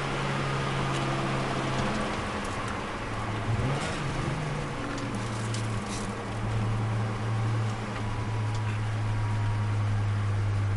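Turbocharged Nissan Micra's engine pulling under load at track speed, heard from inside the stripped cabin with road and tyre noise. The engine note breaks and shifts lower about four seconds in, then holds steady.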